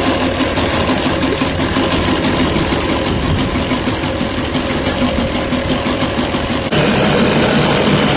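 Boat motor running steadily, with a sudden step up in loudness near the end.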